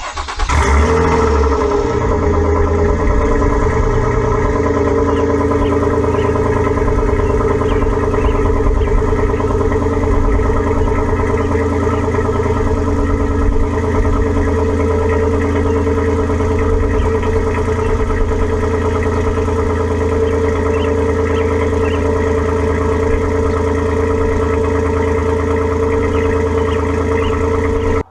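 2009 Nissan Murano's 3.5-litre V6 cold-starting after sitting overnight, catching within the first second and settling into a steady idle, heard through an exhaust with the catalytic converters and one resonator removed.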